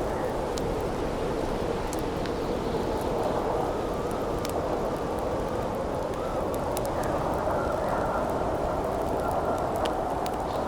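Wind howling steadily, with a faint wavering whistle. A campfire crackles now and then, with a few sharp pops scattered through.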